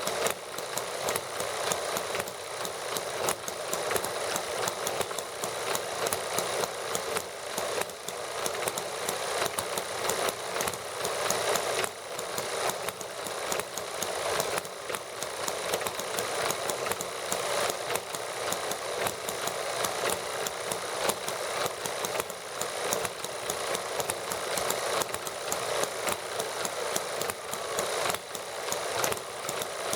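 Small model gasoline engines running steadily together, a dense, even stream of rapid firing clicks with no pauses.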